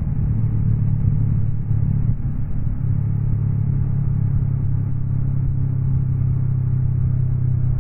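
Honda NX 500's parallel-twin engine running under way on the road, its pitch wavering for the first few seconds, then holding steady at an even cruise, over a low rumble of wind and road noise.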